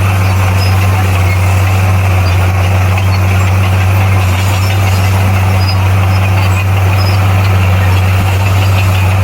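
Bulldozer's diesel engine running steadily: a deep, even drone with a layer of mechanical noise over it.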